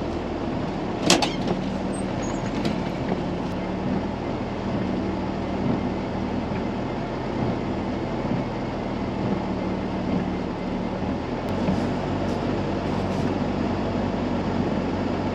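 Pickup truck engine running steadily at low revs while the truck is driven through snow, with a sharp click about a second in.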